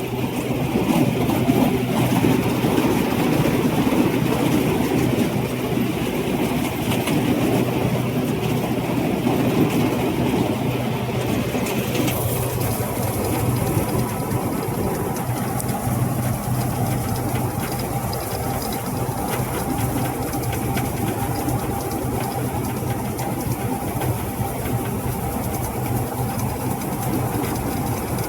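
Rice combine harvester running steadily: a constant diesel engine hum under a dense mechanical din, with a slight change in the upper noise about twelve seconds in.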